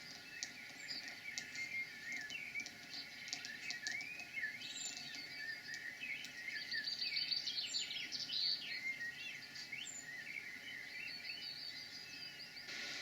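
Several songbirds singing and calling together: quick chirps and twittering phrases overlapping throughout, over a faint steady background noise.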